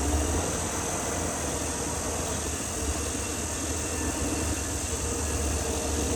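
Caterpillar D6R XL bulldozer's diesel engine running steadily with a low, even hum.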